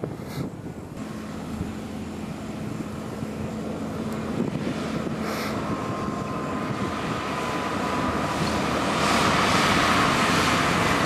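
An 8WD spreader truck's engine running and getting steadily louder as it draws closer, with a steady whine over the engine noise.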